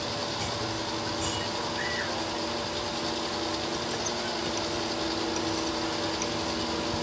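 A workshop machine or power tool running steadily: an even noise with a constant hum that sets in about half a second in.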